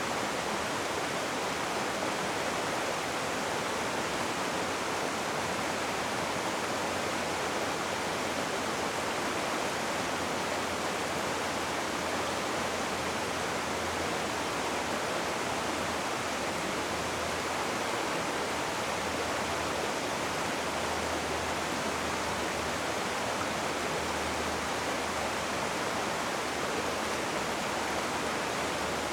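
Rushing water: a river or waterfall making a steady, unbroken rush.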